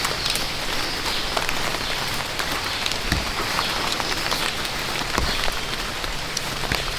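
Steady rain falling: a dense, even hiss dotted with the ticks of single drops.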